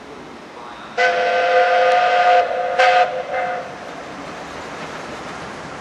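Steam locomotive whistle, 60163 Tornado's, sounding a chord of several steady tones: a long blast of about a second and a half, then a short second blast, dying away over the steady rumble of the passing train.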